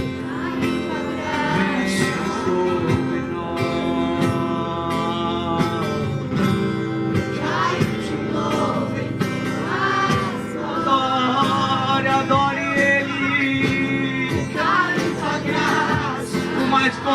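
Christian worship song: singing over acoustic guitar accompaniment.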